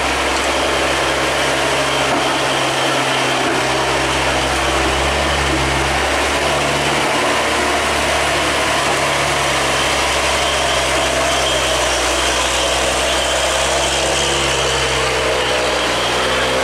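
Vehicle engine running steadily at a low, even pitch under a constant hiss of noise, the engine note shifting slightly about six seconds in.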